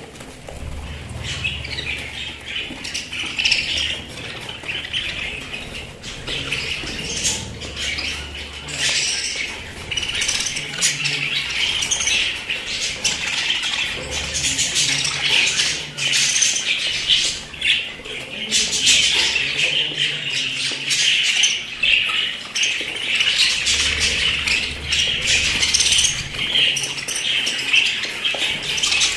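A flock of pet budgerigars chattering and chirping without a break, with many short sharp clicks among the calls.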